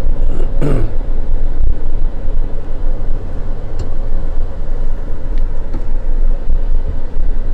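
Car engine and road noise while driving, a loud, steady low rumble, with one brief sharp sound about half a second in.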